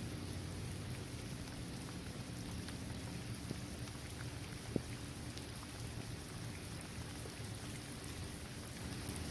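Steady rain falling on a paved basketball court, trees and grass, with scattered individual drop ticks and one sharper tick about five seconds in.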